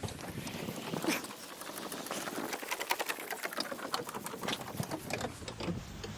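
DAF LF cab-tilt hydraulic hand pump being worked with its lever to raise the cab: a rapid, irregular run of clicks and ticks.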